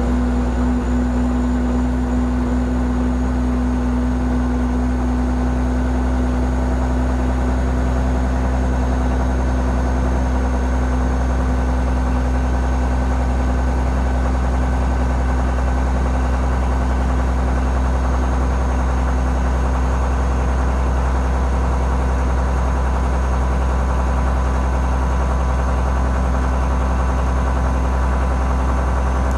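Caterpillar 315C L excavator's diesel engine idling steadily while it warms up after a cold start in about 8 °F cold.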